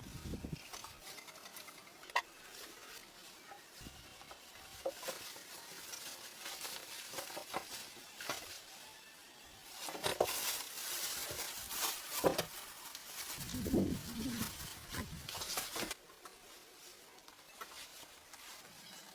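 Scattered light knocks, clicks and rustles, busiest in the middle, cutting off abruptly about three-quarters of the way through.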